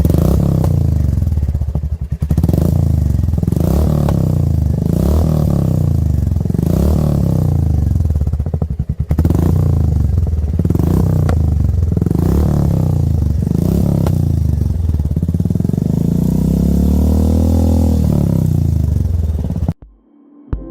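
Royal Enfield 350 single-cylinder engine running through an aftermarket exhaust, revved in repeated short blips about every second and a half, with a longer rev near the end. The sound cuts off abruptly shortly before the end.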